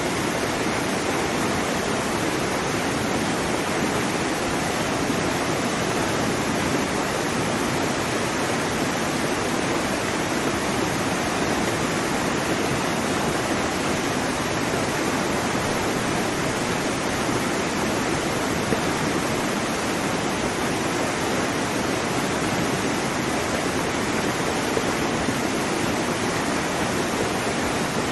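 Waterfall: water falling and splashing in a steady, dense rush with no breaks.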